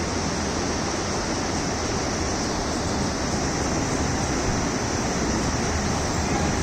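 Shallow river water flowing, a steady rushing.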